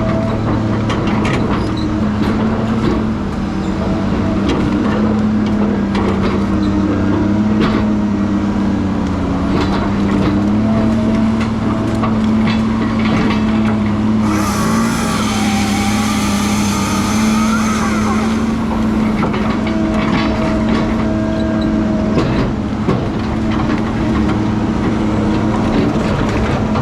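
Heavy diesel engine of logging equipment running steadily, with scattered knocks and clanks. About halfway through, a loud hiss lasts about four seconds.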